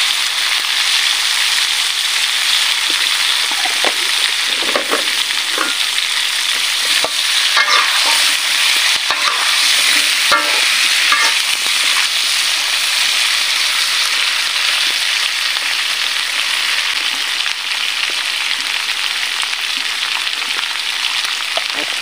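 Pumpkin slices sizzling steadily in hot oil in a wok. A metal spatula scrapes and taps the wok as they are stirred, in a run of short clicks around the middle.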